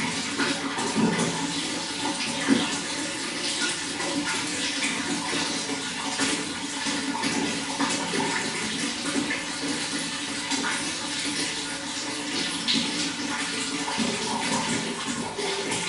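Running water flowing steadily, a continuous rush with many small irregular splashes and drips, one a little louder about two and a half seconds in.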